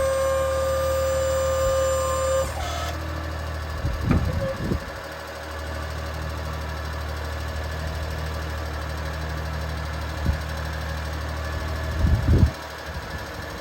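The small engine of a 1993 Suzuki Carry dump truck running with a steady low hum. A steady high whine over it cuts off about two and a half seconds in, and two short thumps or knocks come about four seconds in and near the end.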